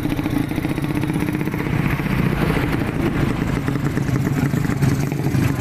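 Modified underbone drag motorcycle engine running loudly and steadily, its pitch shifting only a little.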